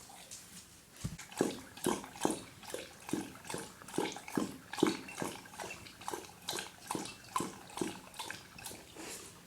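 Dog lapping water from a bowl, a steady rhythm of wet splashy laps about two to three a second, starting about a second in and getting a little softer near the end.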